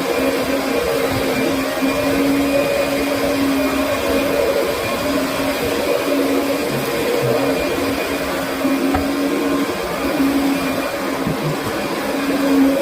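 Kirby Sentria upright vacuum cleaner running with a steady motor hum and airflow rush, wavering slightly in level.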